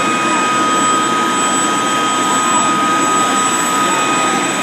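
Boeing CH-47 Chinook running on the ground, its twin turboshaft engines giving a loud, steady roar with a high, constant whine.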